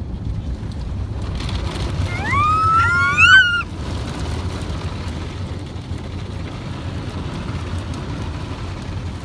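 Steady low rumble of automatic car-wash machinery, heard from inside the car. About two seconds in comes a brief, high squeal that rises and bends in pitch for just over a second; it is the loudest sound.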